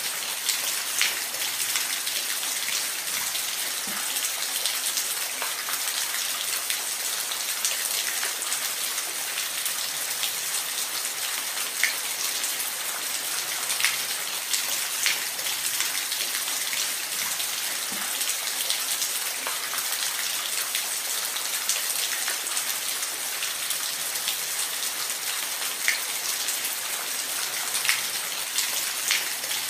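Steady rain falling, an even hiss with scattered individual drops striking a surface, a few louder drips standing out now and then.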